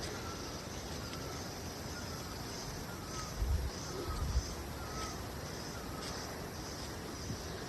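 Outdoor nature ambience: a regular run of high chirps, roughly two a second, typical of an insect, with short, repeated, lower chirping calls alongside. Two brief low bumps come in the middle.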